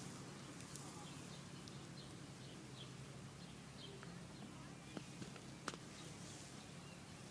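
Faint outdoor background with a few short, high bird chirps in the first few seconds, then a handful of light clicks around five to six seconds in.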